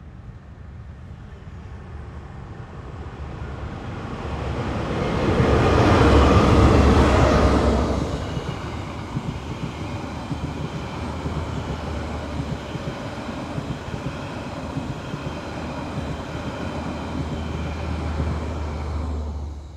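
TranzAlpine passenger train passing: the diesel locomotive and wheels on the rails build to a loud peak about six seconds in, then settle into a steady low rumble. The sound cuts off abruptly near the end.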